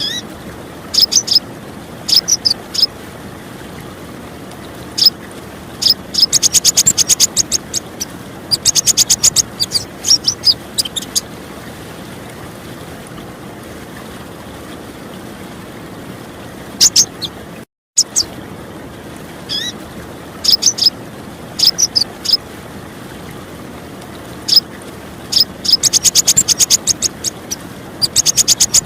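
Female purple-throated sunbird (Leptocoma sperata) calling: short high chirps and fast rattling trills, over a steady wash of running water. The sound drops out briefly a little past halfway, then the same pattern of calls starts over.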